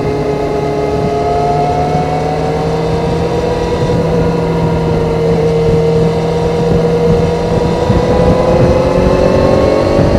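Stock-exhaust 2001 Kawasaki ZZR400 inline-four running at a steady cruise, its pitch dipping slightly, then rising gradually over the last few seconds as it gathers speed.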